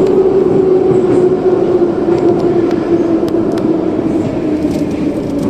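Metro car of the 81-717 type running through the tunnel, its motor and gear whine falling slowly in pitch over a steady rumble as the train slows for the next station, with a few light clicks from the wheels on the track.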